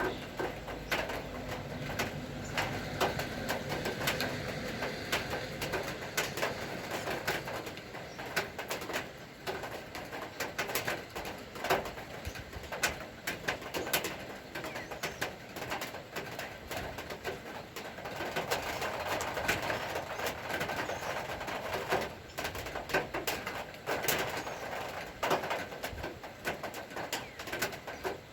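Rain falling, with many scattered drops tapping irregularly, and birds calling through it.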